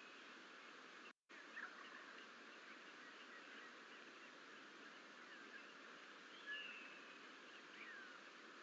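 Faint outdoor ambience on a steady hiss, with a few short, faint bird chirps and one falling call about six and a half seconds in. The sound cuts out completely for a moment about a second in.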